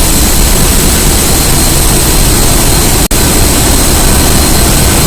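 Loud, steady roar of a dual-fuel diesel-electric LNG carrier's engine-room machinery, with a faint high whine over it. The sound cuts out for an instant about three seconds in.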